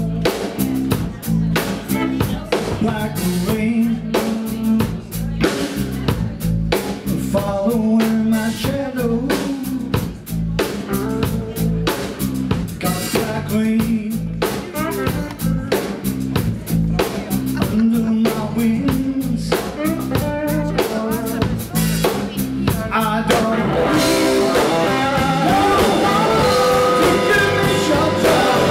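Electric blues-rock band playing live, with drum kit and electric guitar. Near the end it swells into a louder, fuller passage.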